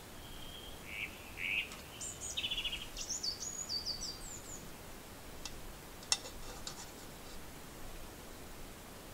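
Small songbirds calling in a birch wood: a run of short high chirps and thin whistled notes in the first few seconds, with more calls near the end. About six seconds in comes one sharp click, then a few lighter ticks, over a faint outdoor hiss.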